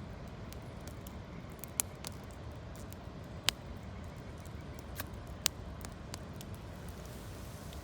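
Wood campfire of gathered branches burning, with sharp crackles and pops every second or so over a steady background rush.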